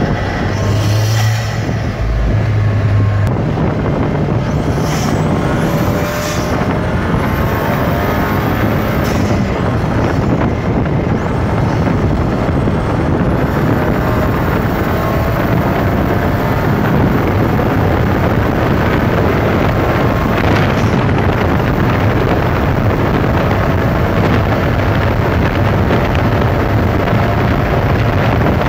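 Tuned KTM X-Bow's 2.0-litre TFSI turbocharged four-cylinder engine running hard at speed under a steady rush of noise, its pitch climbing now and then under acceleration.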